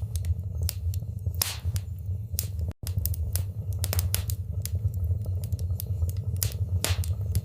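Fire burning in a fireplace, crackling with frequent sharp pops over a steady low rumble of flames. The sound cuts out completely for a split second a little before three seconds in.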